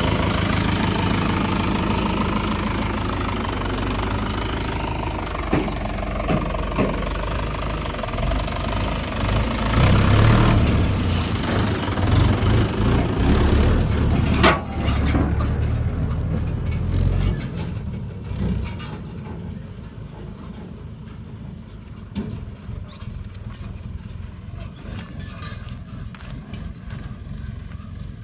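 Tractor diesel engine running close by, loud for the first part. About 17 seconds in it drops off to a quieter running sound with light clicking, and there is one sharp click a little before that.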